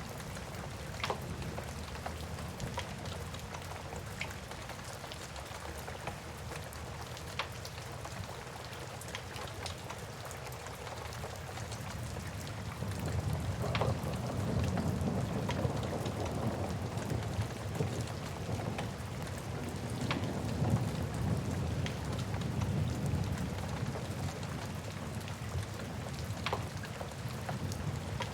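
Wood fire crackling with scattered sharp pops, over a steady patter of rain. A low rumble swells up about halfway through and then slowly fades.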